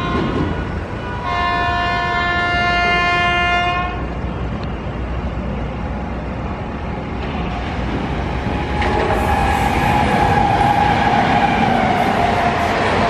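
An Indian Railways electric locomotive's horn sounds one long steady blast, starting about a second in and lasting nearly three seconds, over the rumble of the approaching train. From about nine seconds in, the train passes close at speed with a louder, steady rush of wheels on rail.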